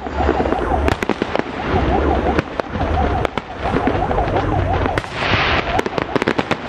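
Aerial fireworks bursting in rapid succession, a dense run of sharp bangs and crackles, with a hissing crackle swelling about five seconds in.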